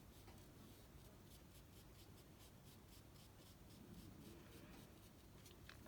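Faint, soft scratching of a paintbrush dabbing and stroking on watercolour paper, a few strokes a second.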